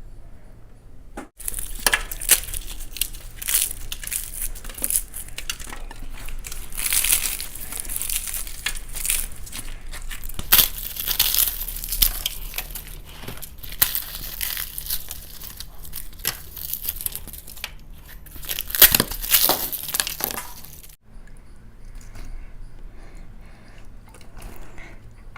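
Crisp fried food being broken and crunched close to the microphone: a dense run of crackling that starts abruptly about a second in and cuts off suddenly near the end.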